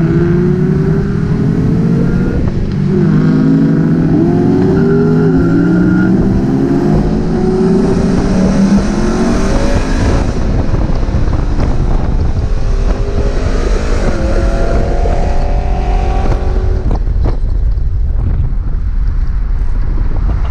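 Car engine accelerating hard, its pitch climbing and dropping several times as it revs up and eases off.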